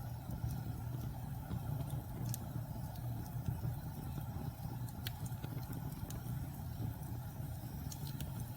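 Wood logs burning in a fireplace: a steady low rumble from the fire with a few sparse, sharp crackles and pops from the wood.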